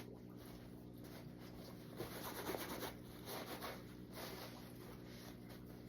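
Faint hand rubbing and wiping on a sneaker during cleaning, in uneven strokes that are a little louder a couple of seconds in, over a low steady hum.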